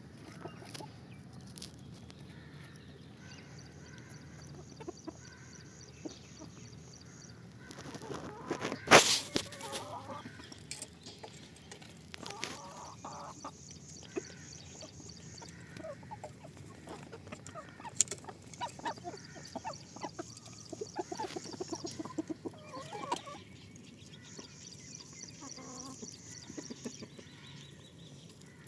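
Desi hens clucking as they peck at wet bran feed, with many small taps of beaks on the feed. There is one loud knock about nine seconds in, and a high pulsing trill comes and goes four times.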